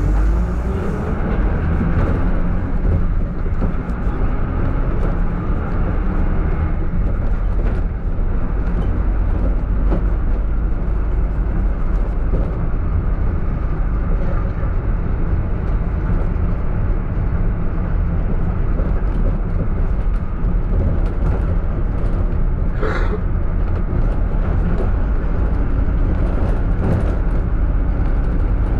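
Minibus running along, with a steady low engine and road rumble. A short hissing burst comes about three-quarters of the way through.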